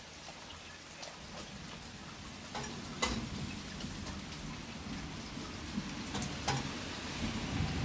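Steady rain falling, with scattered sharp drip taps. From about three seconds in, a low rumble of distant thunder builds and grows toward the end.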